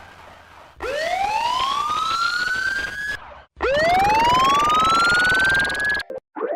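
Police siren sounding two rising wails, each climbing in pitch for about two and a half seconds and cutting off abruptly, with a short pause between them. Just before the end a different, rapidly pulsing siren tone starts up.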